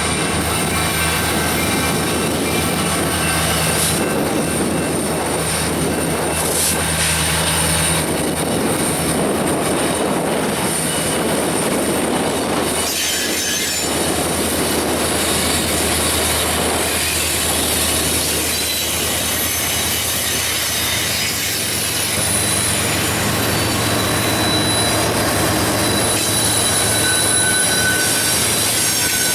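Freight train rolling past: steady rumble and clatter of the cars on the rails, with high-pitched wheel squeal ringing on and off throughout.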